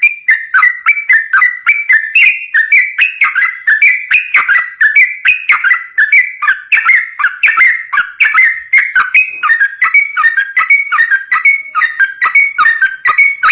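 Yellow-vented bulbul singing a fast, unbroken string of short whistled notes, several a second. This is the rapid, non-stop 'ropel' style of song used as a lure recording for other bulbuls.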